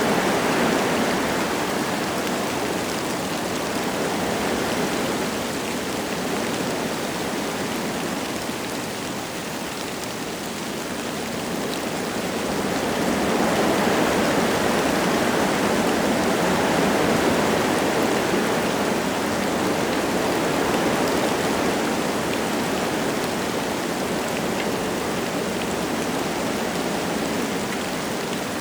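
Wind gusting through forest trees with light rain falling, a steady rushing that swells at the start, eases off about a third of the way in, then builds again to a stronger gust around the middle.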